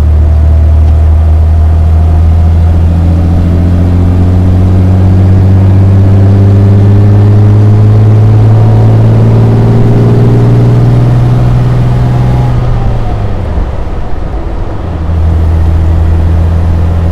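1955 Mercedes-Benz 300 SL Roadster's 3.0-litre straight-six engine pulling under load, its pitch climbing slowly for about twelve seconds. About thirteen seconds in it eases off and dips briefly, then runs steady again.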